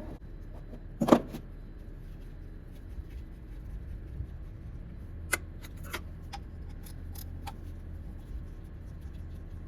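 Metal hand tools clinking while undoing 12mm bolts on an engine: one sharp metallic knock about a second in, then a string of separate light clicks and clinks a few seconds later.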